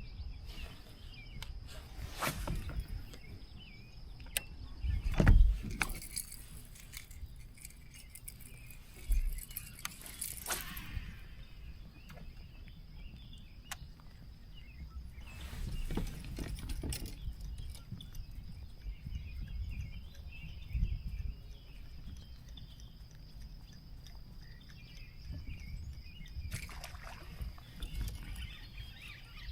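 Scattered knocks and rattles of fishing gear handled in a kayak, the loudest about five seconds in, over a low steady rumble.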